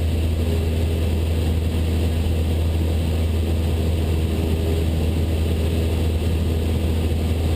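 Cessna 172 Skyhawk's piston engine and propeller running steadily: a constant low drone.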